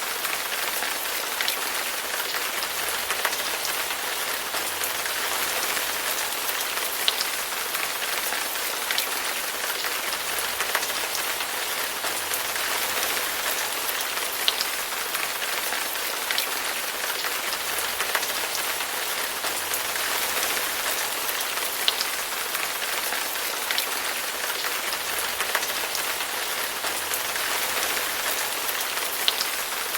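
Steady rain falling on a surface, an even hiss with scattered sharper drops ticking through it.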